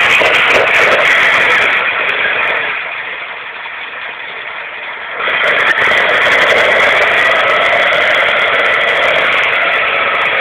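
Lamborghini Miura V12 running just after being started from a long standstill, heard close over its open carburettor intake trumpets. The level drops for a couple of seconds a few seconds in, then picks up again about five seconds in and runs on steadily.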